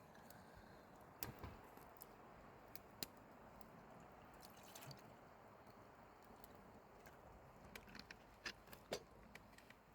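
Quiet low hiss with scattered small sharp clicks and ticks, a few close together near the end.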